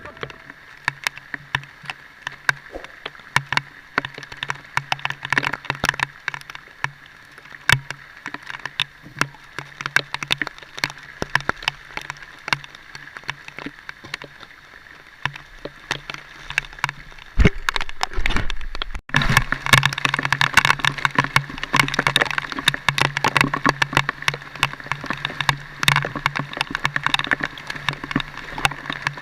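A vehicle engine running steadily in heavy rain, with many sharp taps from raindrops. About 19 seconds in, the sound cuts off for an instant and comes back louder.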